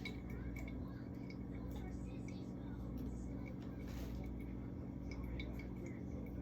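Faint small clicks and soft squishy handling of food containers, over a steady low hum.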